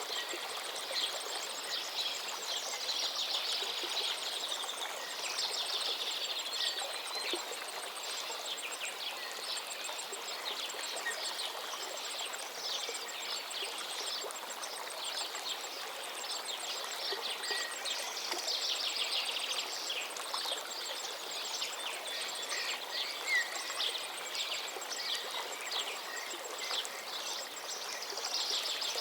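River water flowing steadily, with several songbirds chirping and trilling over it throughout.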